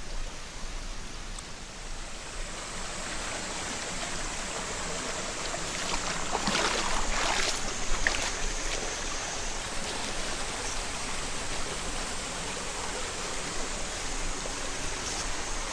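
Mountain headwater stream running over rocks, a steady rush of water. About halfway through, a louder splashing stands out for a couple of seconds.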